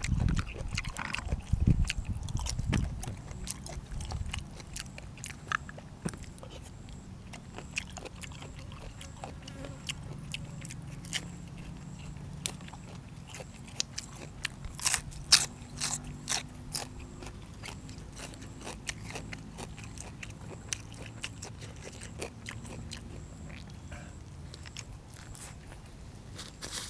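Close-miked chewing and crunching of food, with scattered sharp clicks throughout and a few heavy thumps in the first three seconds.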